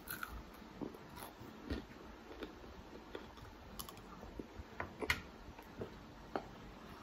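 Close-up mouth sounds of eating crispy fried chicken wings: biting and chewing with irregular crunches and wet clicks.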